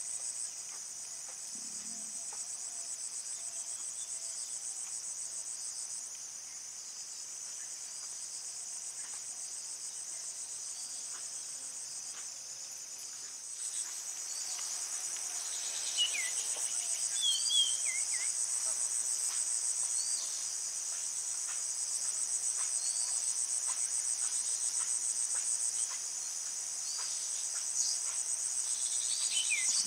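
Dense, steady high-pitched trilling of insects, with a few brief falling bird chirps in the second half, where the whole chorus is somewhat louder.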